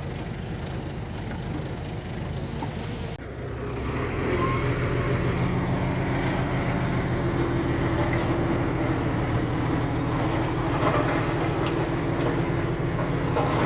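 Diesel engines of heavy earthmoving machinery running steadily. About three seconds in the sound changes abruptly and gets louder, with more engine hum and a high hiss.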